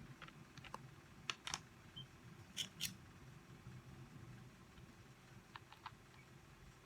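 Scattered light clicks and taps of small parts and tools being handled on a workbench, over a low steady hum. Two sharper pairs of clicks come between about one and three seconds in.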